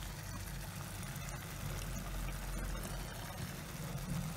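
Marinated chicken and freshly added tomato puree sizzling in a hot kadai, with scattered small crackles over a low steady rumble.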